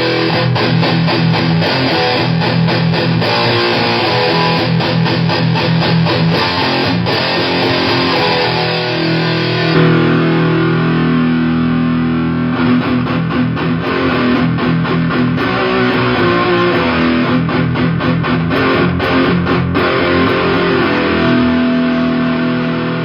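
Electric guitar riffing through heavy fuzz, played through the Hughes & Kettner Black Spirit 200 and Orange Super Crush 100 amp heads. About ten seconds in, the tone changes as the signal is switched from one amp to the other.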